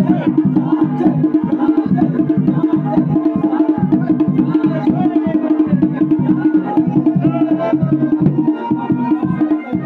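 Garhwali dhol and damau drums played in a fast, steady rhythm, with a wavering melodic line over them.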